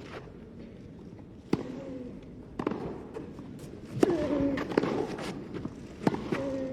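Tennis rally: a ball struck back and forth by rackets, about five sharp hits a second or so apart, with short pitched squeaks or grunts between the hits.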